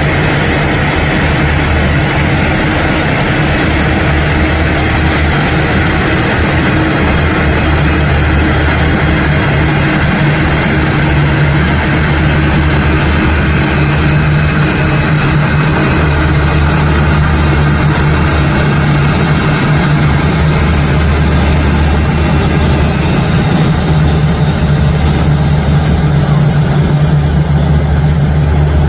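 Jet airliner engines running steadily at idle: a loud, even rushing noise over a low, constant hum, with no change in pitch.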